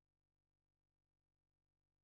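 Silence: the sound track is blank, with no audible sound.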